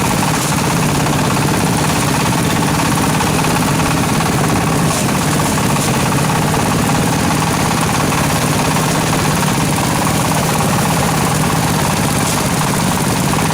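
An engine running steadily at a constant speed: a continuous, unchanging drone with a low hum.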